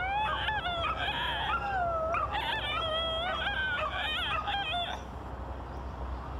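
An eerie wailing call that slides up and down in pitch without pause, then stops about five seconds in.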